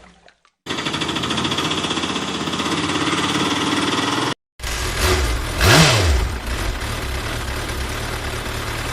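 Engine running steadily with a fast, even rattle, which cuts off abruptly a little past the middle; an engine sound starts again straight after, with a short whoosh partway through.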